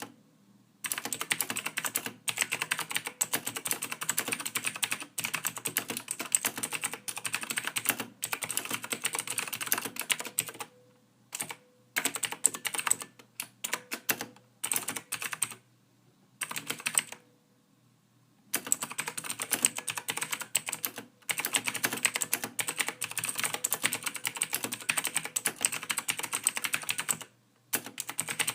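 Soft typing on a computer keyboard: fast, continuous runs of keystrokes broken by a few pauses of a second or two.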